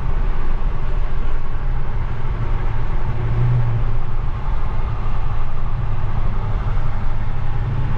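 Steady low drone of engine and road noise heard from inside the Infiniti Q50 Red Sport 400's cabin while cruising at freeway speed, the pitch holding level with no acceleration.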